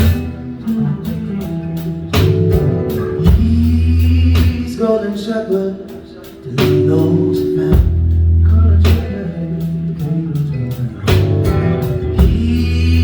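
Live blues-rock band playing: lead electric guitar, keyboard, bass guitar and drum kit, with a singer's voice over them. The music dips briefly in level about halfway through, then comes back in full.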